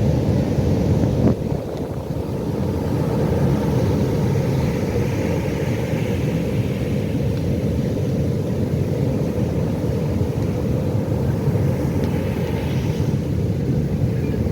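Ocean surf: a steady low rumble of breaking waves, with the hiss of water washing up swelling and fading twice, about four seconds in and again near the end. A short click just over a second in.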